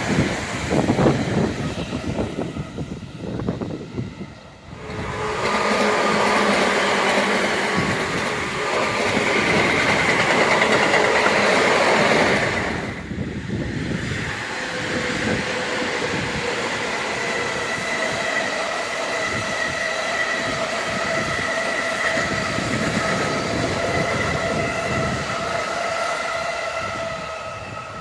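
Electric commuter trains passing close by: wheels rattling and rumbling on the rails, with the traction motors' steady whine. About 13 s in the sound breaks off abruptly, and another train's motor whine carries on, fading near the end.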